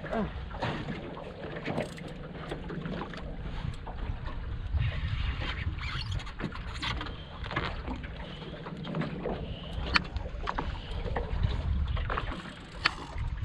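Small boat on the water: a steady low rumble of wind and water against the hull, with scattered knocks and clicks at irregular intervals.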